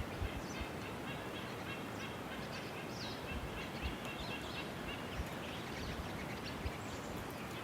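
Small birds chirping faintly and repeatedly over a steady outdoor hiss.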